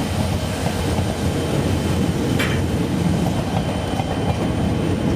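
Escanaba & Lake Superior's EMD diesel locomotives (SD40-2s and an SD9) rolling past at low speed: a steady engine rumble mixed with wheel-on-rail noise. There is one sharp clank about two and a half seconds in.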